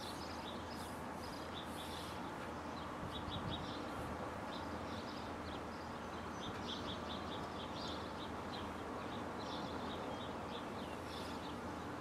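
Small birds chirping in quick clusters of short high notes, over a steady low background rumble.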